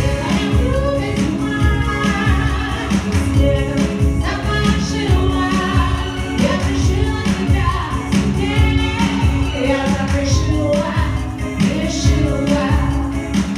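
A song sung over instrumental accompaniment with a steady beat.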